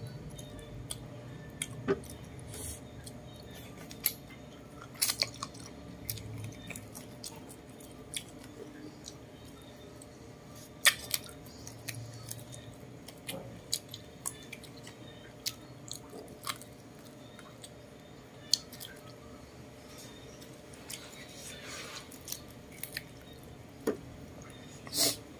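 Close mouth sounds of someone chewing and biting roast chicken meat eaten by hand: irregular wet smacks and sharp clicks, a few louder than the rest, over a low steady background.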